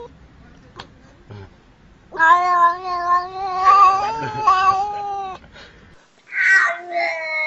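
Domestic cat yowling: one long, drawn-out call of about three seconds, then after a short gap another long call begins near the end.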